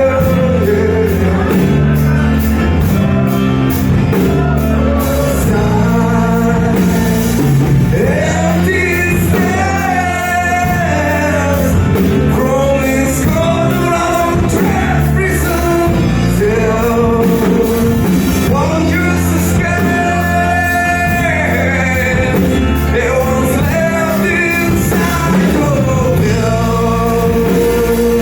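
A rock band playing live, a lead singer's voice carrying the melody over electric guitars, bass and drums, echoing in a large room.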